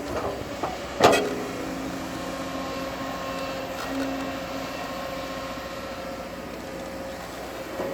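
Heavy diesel machinery such as a crawler bulldozer running steadily, with one sharp, loud clank about a second in.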